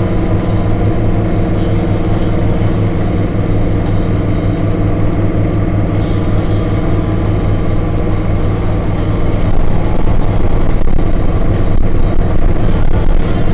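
HMMWV's V8 diesel engine running steadily under way, with a deep, even drone that grows a little louder near the end.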